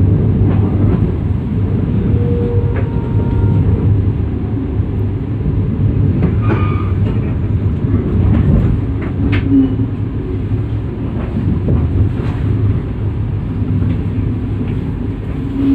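Inside a passenger train coach rolling slowly into a station: a steady low rumble of the wheels on the track, with scattered clicks and knocks and a few brief faint tones. The train is slowing toward its stop.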